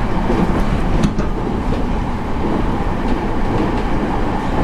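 Passenger train running, heard from inside the car: a steady low rumble with a few faint clicks of the wheels.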